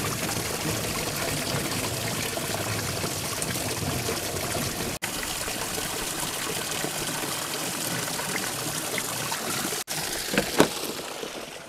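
Steady noise of water, even and full, cutting out for an instant twice, with a few short knocks near the end.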